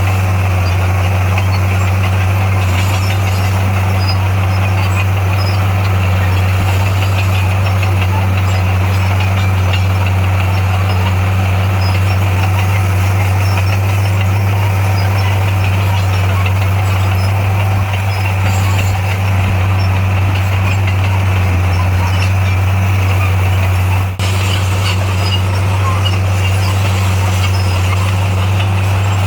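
Heavy-equipment diesel engine running steadily, a constant loud low drone with a brief dip near the end.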